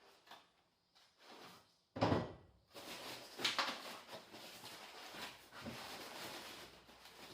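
Workshop handling noises: a few light clicks, a loud knock about two seconds in, then continuous rustling and clatter of parts being handled.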